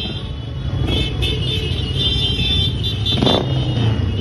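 Motorcycle engines running steadily, with a brief louder swell about three seconds in.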